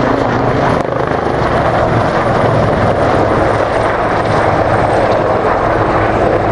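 Aircraft engine noise from a display aircraft flying close: a loud, steady rushing sound with a faint high whine above it, broken by a short dip about a second in.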